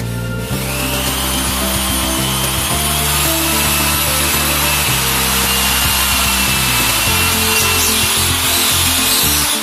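A power tool running steadily under load, a harsh cutting or grinding noise with a thin whine in it that starts about half a second in, over background music.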